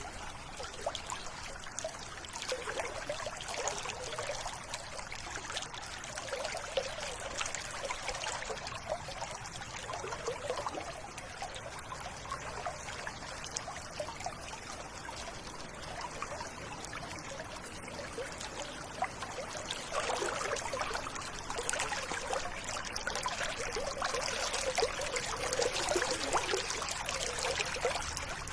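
River water flowing steadily over stones, trickling and gurgling, a little louder in the last third.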